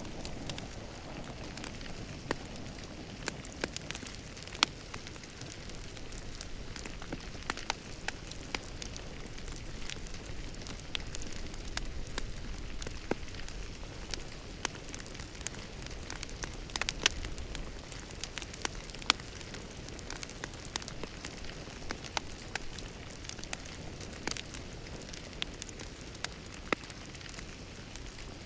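Wood fire crackling in a fireplace: a steady soft hiss with irregular sharp pops and snaps, a few louder ones scattered through.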